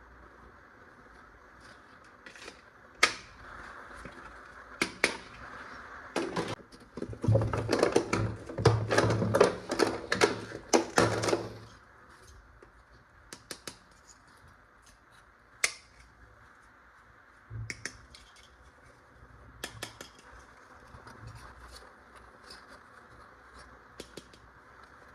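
Hard plastic toy parts being handled: scattered sharp clicks and snaps, with a dense spell of clattering about a third of the way in.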